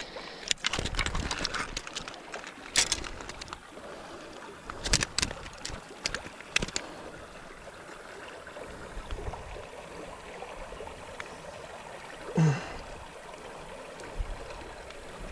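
Creek water running and gurgling, with several sharp knocks or splashes in the first seven seconds and a short falling voice-like sound about twelve seconds in.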